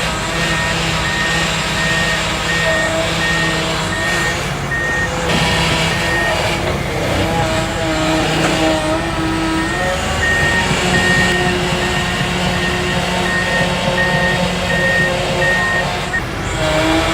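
An excavator's travel alarm beeping rapidly and evenly over its diesel engine running. The beeping stops for a few seconds about six seconds in, then starts again.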